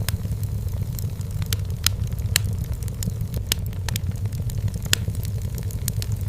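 Wood fire burning in a fireplace: irregular sharp crackles and pops of the firewood over a steady low rumble of the flames, with a few louder pops scattered through.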